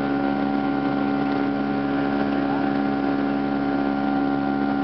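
Steady drone of an airliner's engines heard inside the passenger cabin, an even rushing noise with a hum of several steady tones.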